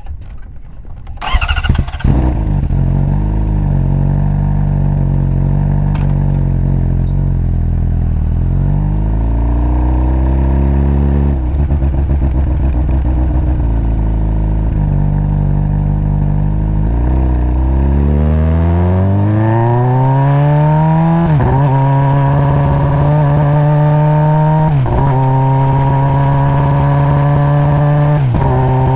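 Honda CBR600RR inline-four on its stock exhaust starts up about a second and a half in and idles. The bike then pulls away, the engine note rising and dropping suddenly at each upshift as it accelerates through the gears.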